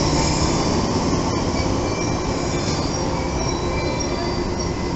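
A JR 115-series electric train rolling slowly along the platform: a steady rumble of wheels on rail with thin, high squeals that come and go on top.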